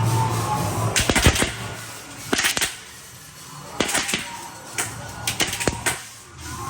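Haunted-house maze sound effects: a string of sharp, noisy bursts in short clusters about a second apart, over a background music track.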